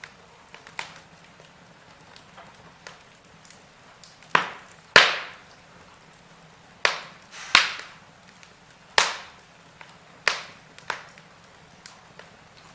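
Wood fire in a fireplace crackling: a faint steady hiss broken by irregular sharp pops and cracks, with a cluster of loud ones through the middle.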